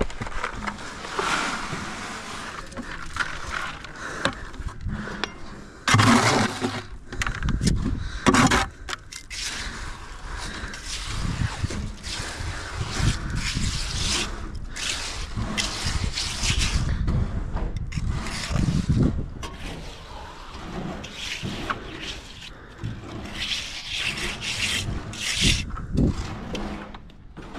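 Wet concrete being worked with hand tools: irregular scraping and rubbing.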